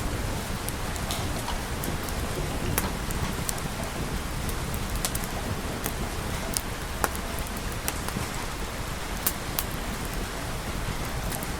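Steady rain with a low rumble underneath and scattered sharp ticks of drops or crackles.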